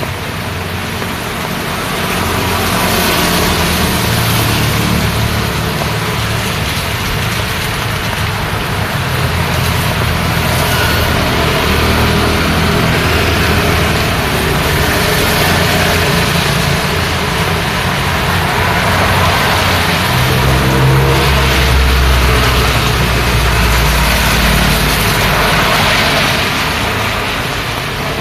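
Road traffic in the rain: vehicles passing over a continuous hiss. Engine hum rises and falls as they go by, and a heavy vehicle's deep rumble swells about two-thirds of the way through.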